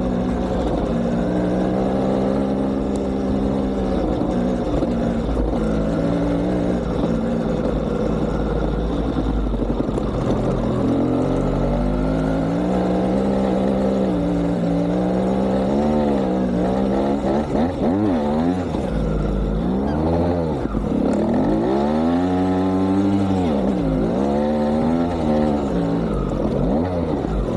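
GasGas TXT 200 trial motorcycle's two-stroke single-cylinder engine running. It holds a fairly steady pitch for the first ten seconds or so, then is revved up and down repeatedly in short swells.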